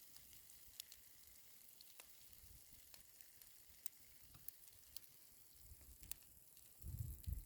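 Faint fizzing hiss with scattered small sharp crackles: dry Ural blue clay soaking up water and splitting. A low rumble comes in near the end.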